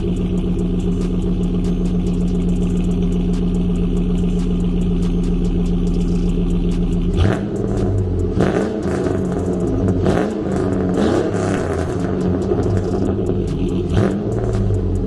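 Truck engine running through a 3-inch Dynamax muffler with no catalytic converters: a steady idle, then from about halfway through, several short revs of the throttle.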